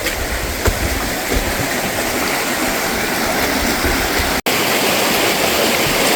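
River water rushing over rock slabs in a steady, fairly loud hiss. The sound drops out for an instant about four and a half seconds in, then carries on a little louder.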